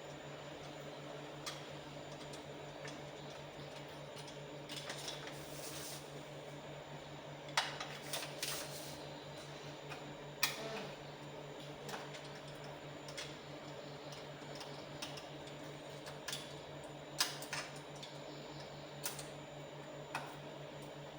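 Scattered sharp clicks and clacks of small hard parts being handled, irregularly spaced and a few seconds apart, over a steady low hum.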